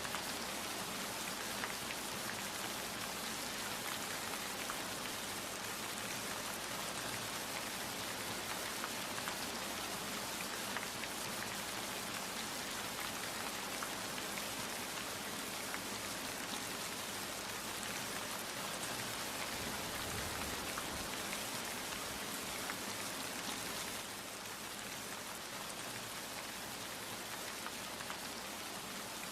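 Steady rain falling, an even hiss of many drops with fine individual drop ticks, easing slightly in loudness about 24 seconds in.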